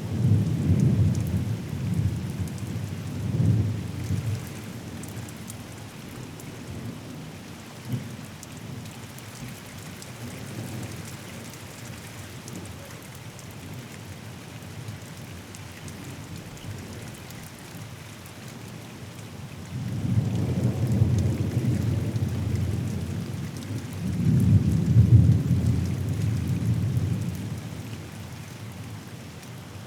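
Steady rain with rolling thunder: a rumble dies away over the first few seconds, then a long rumble begins about twenty seconds in, swells and fades near the end.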